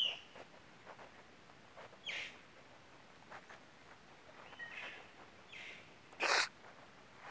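Faint outdoor ambience with a few short, high bird chirps scattered through it, and one brief, louder rush of noise about six seconds in.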